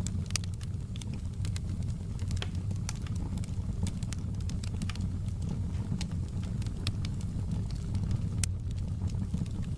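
Wood fire burning in a fireplace: logs crackling with irregular sharp pops over a steady low rumble of the flames. One pop stands out near the end.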